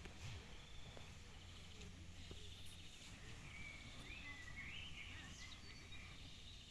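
Faint birdsong: small birds chirping and twittering with short rising and falling notes, over a low steady background rumble.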